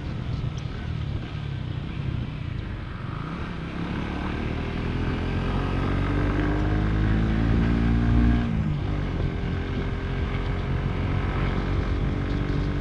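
Motorcycle engine under way, its revs climbing for several seconds, then dropping sharply about eight seconds in before running on steadily.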